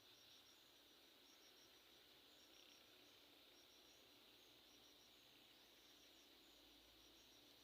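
Near silence: faint outdoor ambience with insects chirping in short repeated high trills over a steady high hiss.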